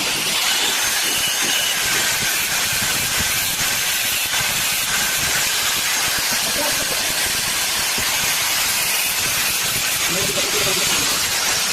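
Steady hiss of rushing water, even and unbroken, strongest in the upper register.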